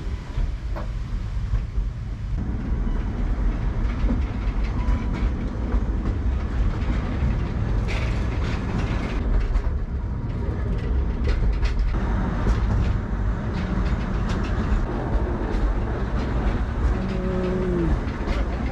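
Akasawa forest railway's small train running along its track: a steady low rumble with scattered clicking from the wheels. Near the end there is a short falling tone.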